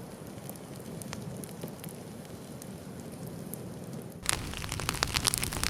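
Wood fire crackling, with sparse sharp pops over a soft hiss of flames. About four seconds in it turns louder, with denser popping and a deeper rumble of burning.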